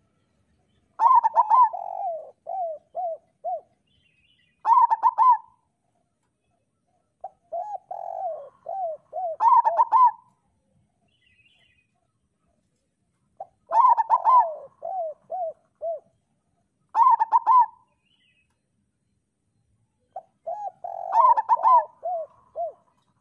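Zebra dove (perkutut) cooing in six separate song phrases, each a few quick bright notes followed by a run of shorter, lower coos, with pauses of about two seconds between phrases.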